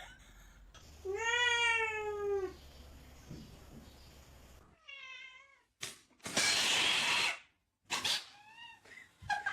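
A cat meowing: one long drawn-out meow that rises slightly and falls, then shorter meows. A loud hissing rush about a second long comes past the middle.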